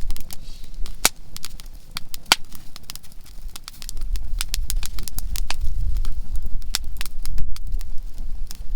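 Conifer (softwood) firewood burning in a campfire, crackling and popping in irregular sharp snaps, two loudest about one and two and a half seconds in, over a steady low rumble.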